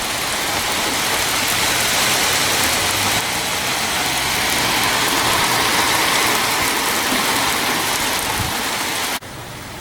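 Heavy rain pouring steadily in a thunderstorm. It drops abruptly to a quieter hiss near the end.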